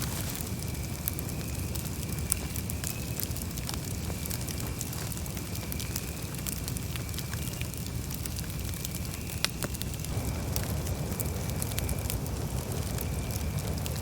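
Campfire burning with a steady low rumble, broken by frequent sharp crackles and pops from the wood.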